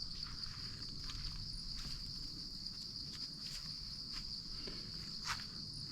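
Insects chirring in a steady, unbroken high-pitched drone, with a few faint clicks over it.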